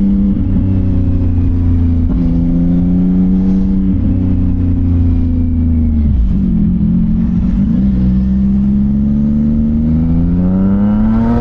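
CFMOTO 675NK's inline-three engine through a titanium full-system exhaust, running at low, steady revs. The revs dip and waver about six seconds in, then climb steadily near the end as the bike accelerates.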